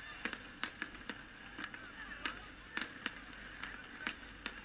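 Fireworks display: a rapid, irregular series of sharp bangs and cracks, about a dozen in under five seconds.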